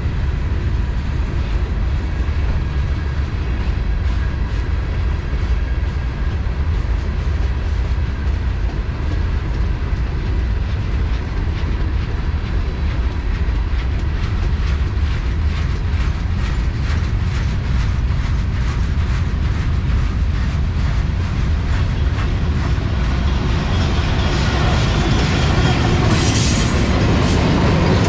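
Freight train rolling past with a steady low rumble and wheels clicking over the rail joints. Near the end it grows louder, with a rushing hiss and a brief high wheel squeal.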